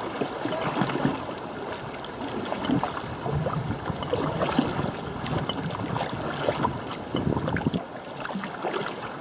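River water rushing and splashing around kayaks at a stretch of rapids, with many short splashes and knocks scattered through.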